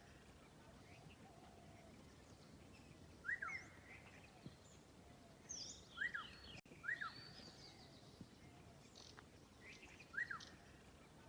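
Birds calling faintly: one bird repeats a short, quickly rising chirp every few seconds, and a flurry of higher, thinner chirps comes in about the middle, over a low background hiss.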